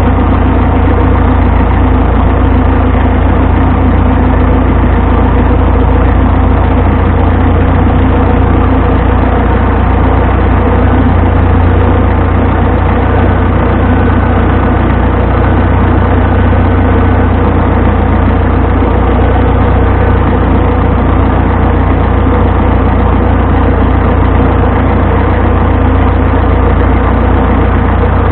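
A vintage farm tractor's engine running steadily at a constant speed: a loud, even drone that does not change.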